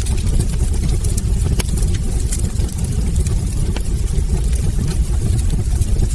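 Wood fire burning in a fireplace: a steady low rumble under frequent sharp crackles and pops from the burning logs.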